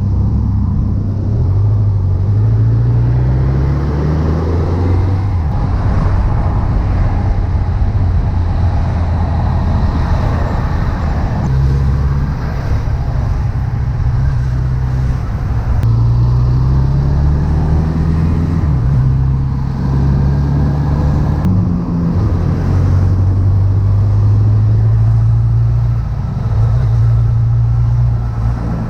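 Honda CB1100EX's air-cooled inline-four engine under way, its pitch climbing and dropping back several times as it pulls through the gears, then running at a steady pitch near the end.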